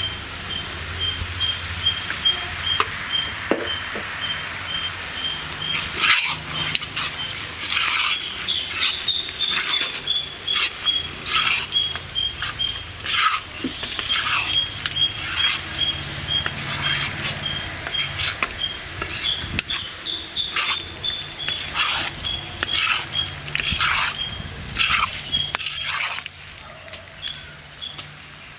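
Chicken pieces sizzling in roasted masala in a hot pan, stirred with repeated scraping strokes of a ladle against the pan, the strokes starting about six seconds in. A faint, evenly pulsing high chirp runs behind.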